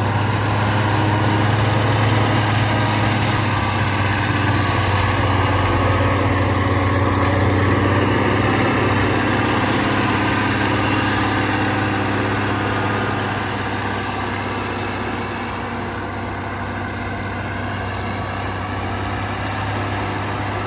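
Motor grader's diesel engine running steadily under load as it spreads laterite soil. It eases off a little about two-thirds of the way through.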